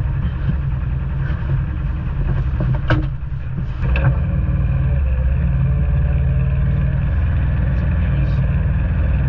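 Side-by-side UTV engine running steadily, with two sharp clicks about three and four seconds in, after which it runs a little louder.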